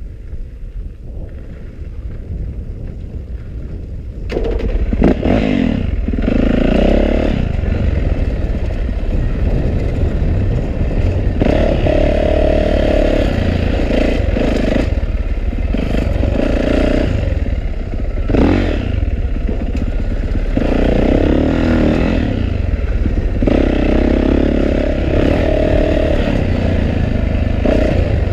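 2012 Yamaha YZ450F's single-cylinder four-stroke engine on a trail ride, heard from a helmet-mounted camera. It starts low and quiet, then about four seconds in it opens up and runs hard, rising and dropping repeatedly as the throttle is opened and closed.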